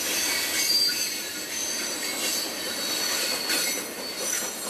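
Train cars rolling past close by, their steel wheels squealing in thin high tones over a steady rolling noise, with a few light clicks of wheels over the rail.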